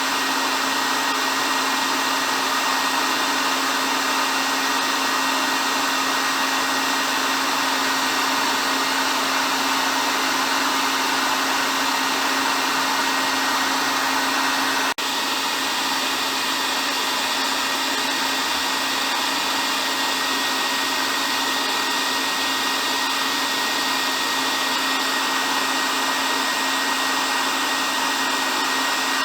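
Hair dryer running steadily: an even blowing rush with a low hum and a thin high whine, used as continuous white noise for sleep. A brief dip in level about halfway through.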